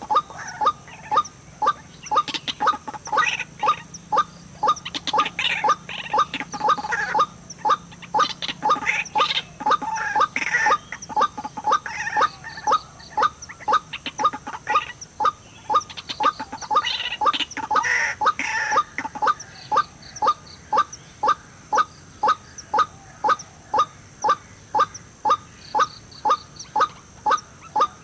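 White-breasted waterhen calls: a steady run of short repeated notes, about two a second, with louder, harsher calls breaking in several times.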